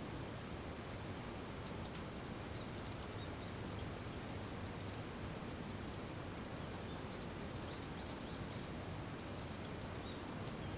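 Steady rain with scattered sharp drips, and a few faint short high chirps here and there.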